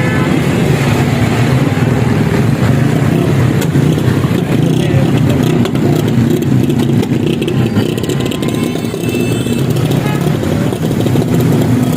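Road traffic with motor vehicle engines running steadily, heard as a continuous low rumble.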